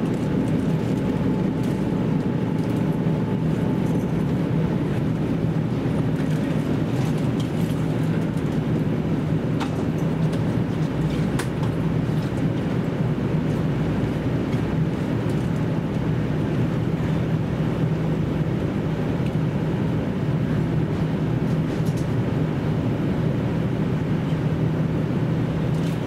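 Running sound of a JR Central KiHa 75 diesel railcar heard from inside the passenger car: a steady engine and running-gear hum with wheel-on-rail noise and a few faint ticks.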